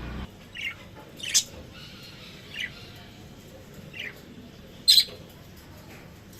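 Pet lovebirds giving short, shrill chirps and squawks: five separate calls about a second apart, the loudest about five seconds in.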